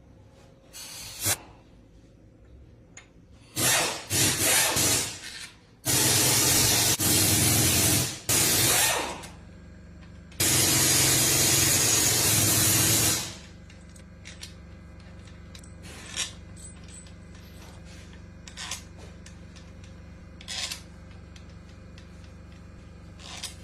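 A power tool run in bursts: short runs about four seconds in, then two longer runs of two to three seconds each, the last stopping about thirteen seconds in. A steady low hum carries on after, with a few faint clicks.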